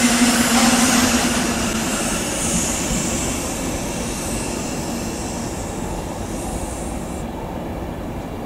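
A train running past on the rails, its noise slowly fading as it draws away, with a steady hum in the first couple of seconds.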